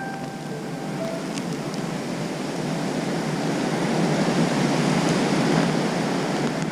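Strong wind blowing in a steady rush that builds louder over the first few seconds.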